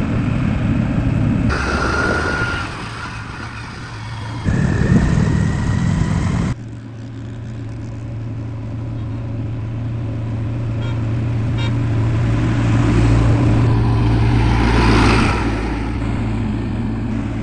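Diesel engine running steadily under load, its hum swelling and easing again near the end; in the first few seconds the engine sound jumps abruptly several times between louder and quieter stretches.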